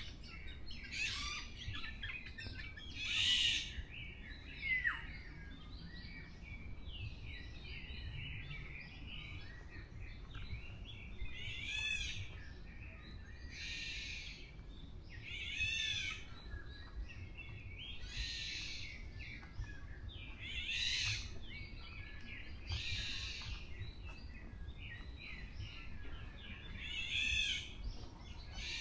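Forest songbirds singing, with a short, bright phrase about every two seconds and softer chirps in between, over a steady low background rumble.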